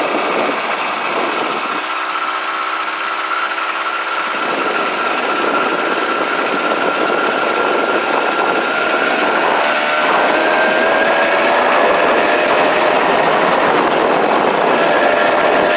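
Small gasoline engine of a motorized bicycle running steadily while riding, its pitch climbing slowly from about halfway through as it speeds up.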